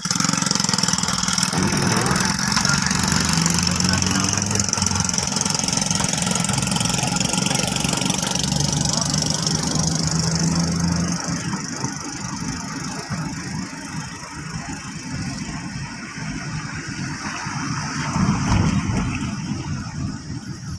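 Car engine running with steady road noise, heard from inside the moving car; the low engine hum changes about halfway through.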